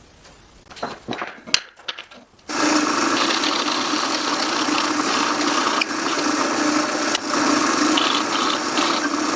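A few light knocks and clicks, then about two and a half seconds in a power tool starts up and runs steadily.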